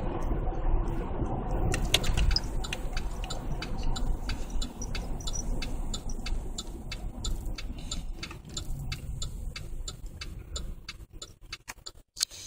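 Low rumble of a 2008 Chevy Tahoe's V8 exhaust through a Magnaflow muffler, fading out near the end. From about two seconds in, a fast, even ticking of several clicks a second runs over it.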